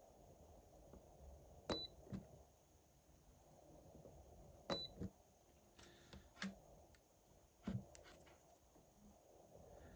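Small battery spot welder firing on the nickel tabs of an iPhone battery cell: two sharp snaps a few seconds apart, each with a short high beep and a softer knock just after, then two more clicks later on.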